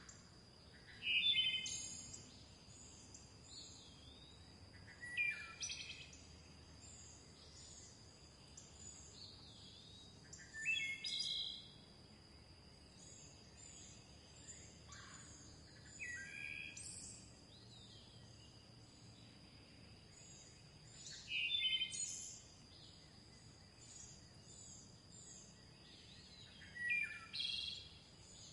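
Songbirds singing: one bird repeats a loud, roughly one-second phrase of descending notes about every five seconds. Under it runs steady high-pitched twittering from other birds, along with a constant thin high tone.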